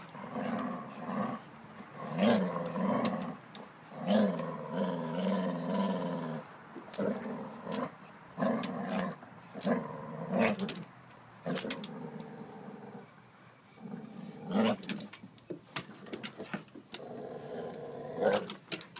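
Vizslas growling in play during a tug-of-war over a stuffed toy: repeated low rumbling bouts, heaviest in the first half and again near the end, with scattered sharp clicks.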